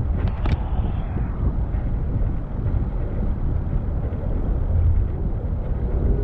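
Steady low rumble of wind buffeting the microphone, mixed with street traffic noise, with a few brief clicks about half a second in.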